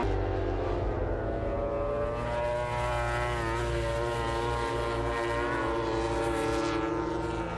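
MotoGP racing motorcycle engine running at high revs, a steady note with small shifts in pitch.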